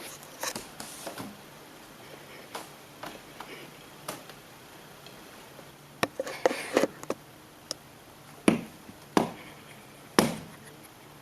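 Irregular knocks and thumps from a cat scrambling against a treadmill, sparse at first, then a quick cluster about six seconds in and three sharp, loud knocks near the end.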